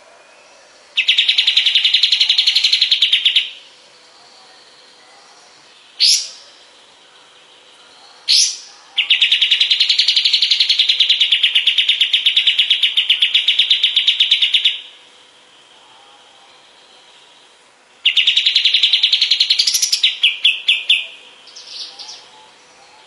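A kapas tembak songbird singing in long, rapid rattling trills. There are three trills, the middle one about six seconds long, with two short sharp rising notes between the first and second. The last trill breaks into a few separate stuttered notes.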